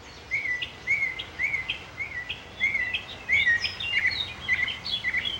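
Small birds chirping: a regular run of short chirps, about two a second, turning into quicker, more varied chirps about three seconds in.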